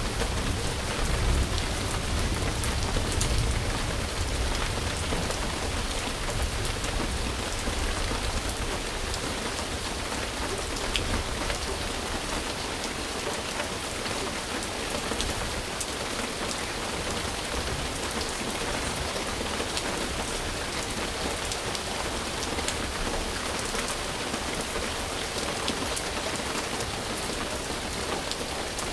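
Steady rain falling on surfaces, an even hiss with scattered drop ticks. A low rumble sits under it for the first few seconds and fades.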